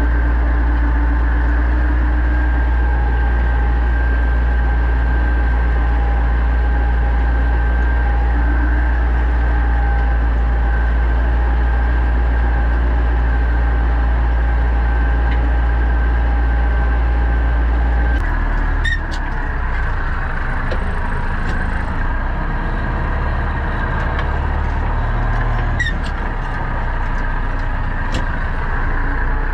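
Pronar 1025A tractor engine running steadily. About two-thirds of the way through, its note changes and turns rougher, with a couple of short clicks.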